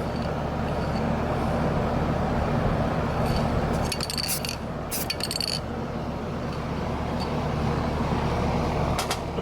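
Short, light hisses from an aerosol spray-paint can, a few brief squirts with two longer ones around four and five seconds in and a quick one near the end, over a steady low hum.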